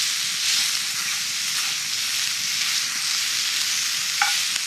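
Sliced sausage sizzling steadily in a hot cast iron skillet over campfire coals, with a stainless steel spatula stirring it around the pan.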